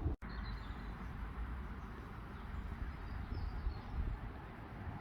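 Wind buffeting the microphone outdoors, a steady low rumble with hiss, with a couple of faint bird chirps over it.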